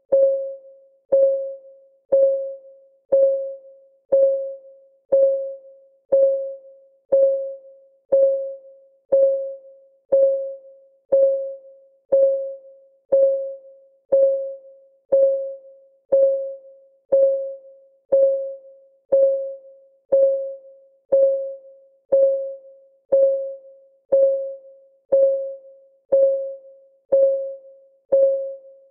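Countdown timer's clock-ticking sound: a short pitched tick once a second, each ringing briefly on one mid note and dying away within about half a second.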